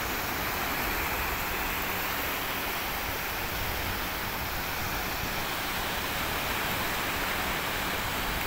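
Steady rush of sea surf, an even noise that holds at one level without separate splashes.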